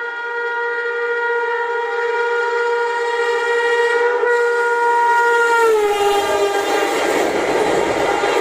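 WAP7 electric locomotive sounding a long, steady horn as it approaches at speed through the station. A little over halfway through, the horn's pitch drops as the locomotive passes, and the loud, even rush of the passing express train takes over.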